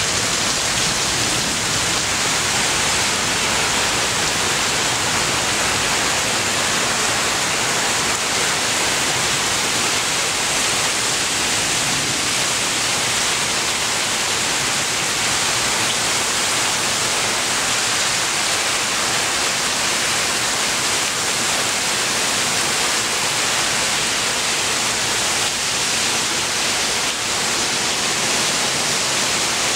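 Torrential thunderstorm downpour, rain coming down at three to four inches an hour: a loud, steady hiss of rain.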